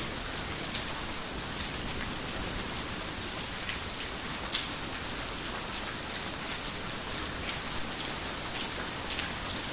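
Heavy rain falling steadily, an even hiss with scattered sharper drop strikes ticking out of it here and there.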